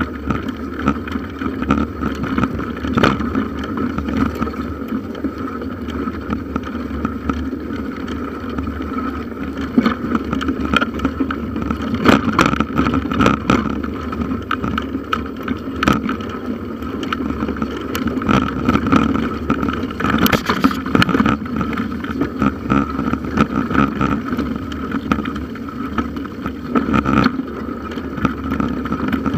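Bicycle being ridden on a forest trail, heard through a handlebar-mounted camera: a steady running noise with frequent knocks and rattles from bumps.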